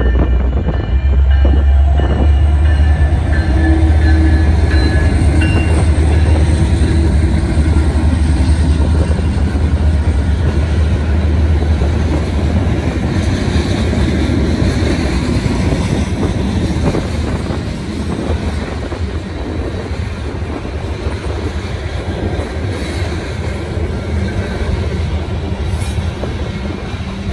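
Freight train of covered hopper cars rolling past: a steady rumble of wheels on rail with some clacking and wheel squeal. It is heaviest for the first dozen seconds, then eases a little.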